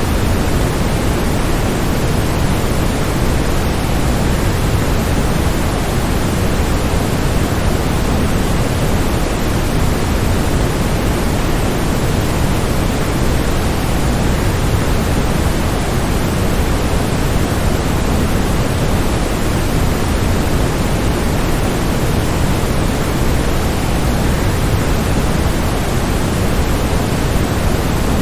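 Waterfall rushing steadily: an even, unbroken noise of falling water, heaviest in the low end, with no change in level.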